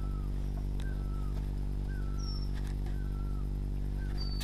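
A bird calling: a short slurred note repeated about every two-thirds of a second, with a few higher thin whistles, over a steady low hum.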